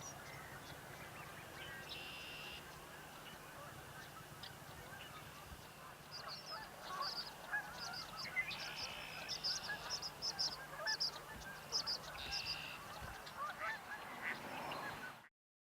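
Waterfowl calling on a marsh: goose-like honks with a flurry of short, high-pitched calls in the middle stretch. The sound cuts off suddenly near the end.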